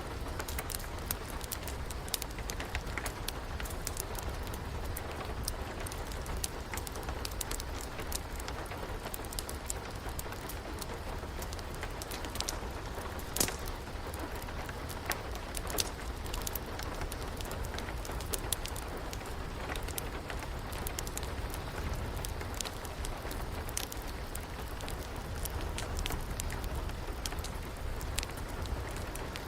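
Wood fire crackling, with scattered sharp pops over a steady rush of rain; one louder pop about halfway through.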